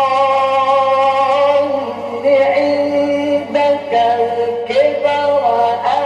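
A male Qur'an reciter in melodic mujawwad style, holding long drawn-out notes that glide and bend between pitches. A steady low hum runs underneath.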